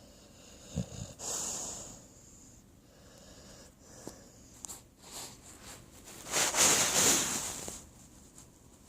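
Pit bull snoring in its sleep. A short low snort comes about a second in, followed by a breathy snore, then a few soft clicks. The longest and loudest snoring breath comes about six and a half seconds in and lasts over a second.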